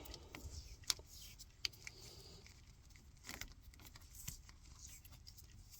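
Faint, scattered small clicks and rustles of hands working on wire connections at a furnace transformer terminal.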